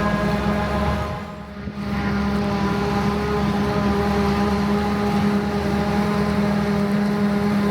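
Claas Jaguar 970 forage harvester running steadily under load while chopping rye, its 790-horsepower MAN diesel giving a constant droning hum. The sound dips briefly about a second and a half in, then carries on unchanged.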